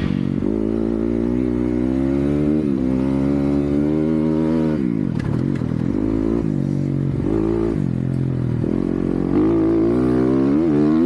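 Motocross dirt bike engine revving hard, its pitch climbing and dropping over and over as the throttle is chopped and opened again, with a deep dip about five seconds in.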